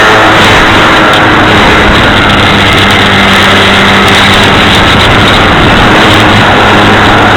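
Motor and propeller of a foam R/C Cessna model plane running steadily in flight, heard from a camera mounted on its wing, with loud wind rushing over the microphone.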